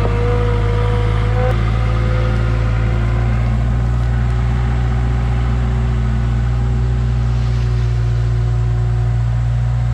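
Toyota SDK7 skid steer's 2J diesel engine running steadily, with a steady whine above the low drone.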